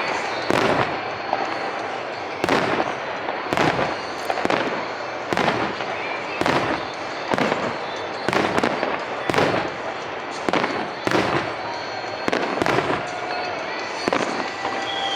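Fireworks show: aerial shells bursting in a rapid, irregular string, about one bang a second, each with a short echoing tail.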